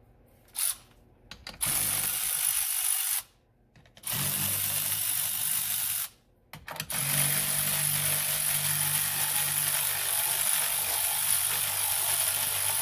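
Power drill-driver spinning a 10 mm deep-well socket on an extension, running off the battery hold-down fasteners. It comes in three steady runs: a short one about two seconds in, another around four seconds, then a long run from about seven seconds on, with a couple of clicks at the start.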